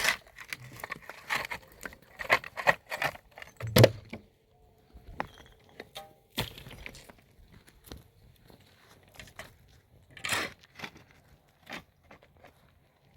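Irregular knocks and clatters of hard objects being handled or struck, with the loudest knock about four seconds in and another near ten seconds.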